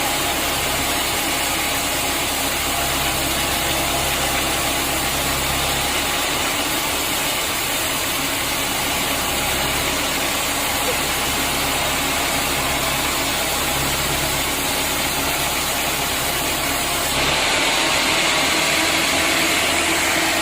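Sawmill machinery running steadily, with a low engine hum under a dense hiss. About seventeen seconds in, the sound turns a little louder and hissier.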